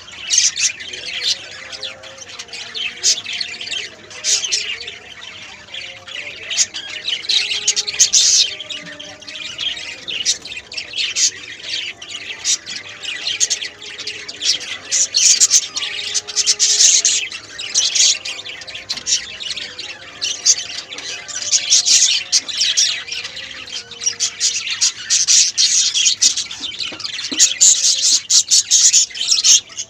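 Lovebirds chattering and squawking: a continuous, shrill, overlapping chatter of many calls.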